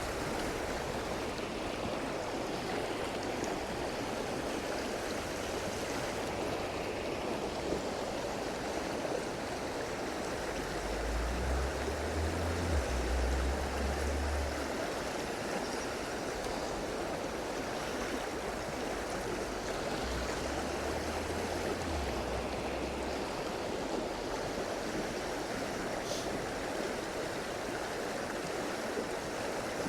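Rocky upland stream flowing steadily, a constant rushing of water, with two low rumbles on the microphone about a third and two-thirds of the way through.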